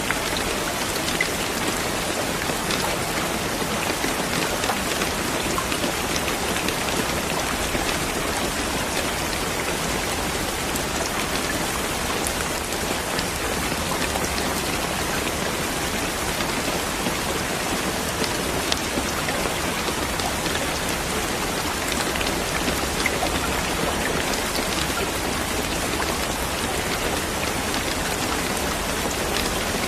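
Steady, heavy rain falling on a surface, a dense even hiss with many individual drops pattering through it.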